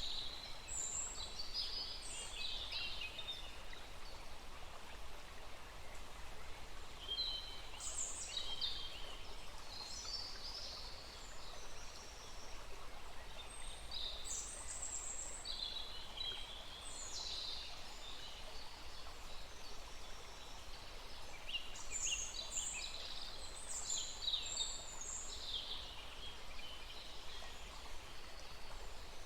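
Small stream running steadily, with songbirds singing high-pitched phrases in bursts every few seconds.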